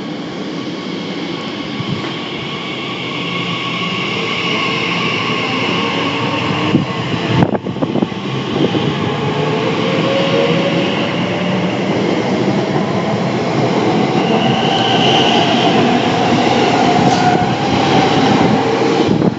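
Electric multiple-unit train running close by and gathering speed, its traction motors whining in a rising pitch over steady wheel and rail noise, with one sharp clank about halfway through.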